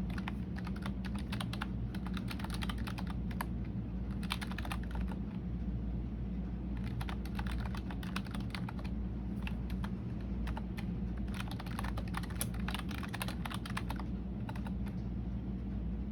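Typing on a computer keyboard in quick bursts of key clicks with short pauses between them, over a steady low background hum.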